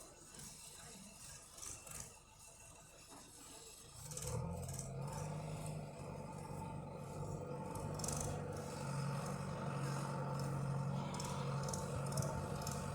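Tractor diesel engine running steadily, coming in about four seconds in after a few seconds of faint clicks and rattles.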